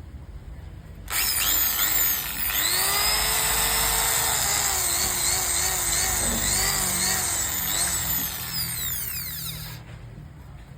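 Small 230 W corded electric drill with a 6.5 mm chuck, its motor starting about a second in and whining up to speed. The pitch then wavers up and down for several seconds before the motor winds down and stops near the end.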